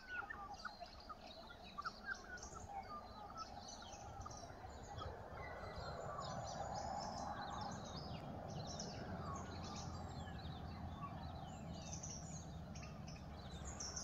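Wild birds chirping in many short, quick high calls, over a steady outdoor background noise that grows louder about four seconds in.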